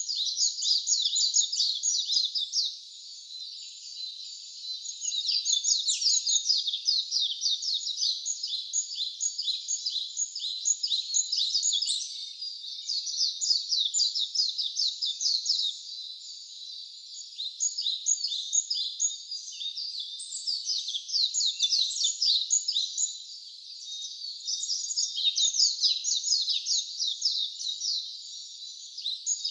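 Songbirds chirping: a dense, continuous run of rapid high notes that swells and eases every few seconds.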